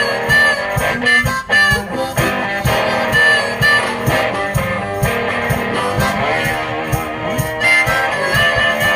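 One-man band playing a blues number: guitar and harmonica over a steady low beat.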